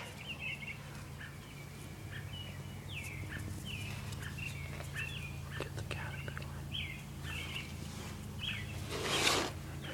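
Small bird chirping over and over in short, high notes over a steady low hum, with a brief rush of noise near the end.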